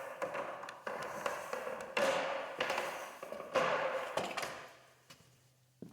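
Footsteps: about six knocks and scuffs, irregularly spaced, dying away about a second before the end.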